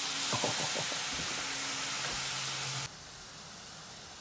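Jell-O sizzling in a hot cast-iron skillet: a steady hiss that drops off abruptly about three seconds in, leaving only a faint hiss.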